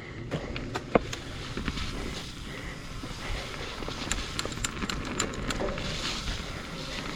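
Mountain bike rolling over a wet dirt trail, with scattered sharp clicks and rattles from the bike.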